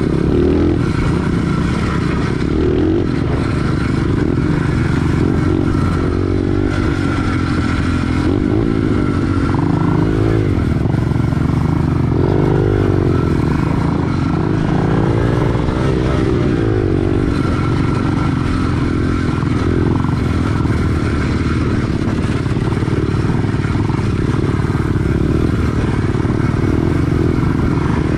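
Engine of an SSR 110 pit bike, a small air-cooled single-cylinder four-stroke, running while riding. The engine pitch rises and falls again and again as the throttle is worked, most plainly in the middle stretch.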